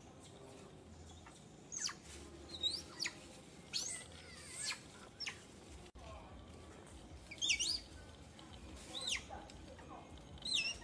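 Small birds chirping: short, high, sweeping calls, roughly one every second, over a faint low hum.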